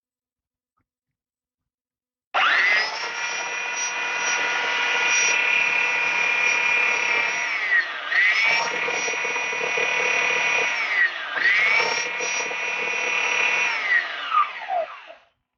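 Electric power tool motor running at a steady high pitch in three long runs, dipping briefly in pitch twice between them and winding down at the end.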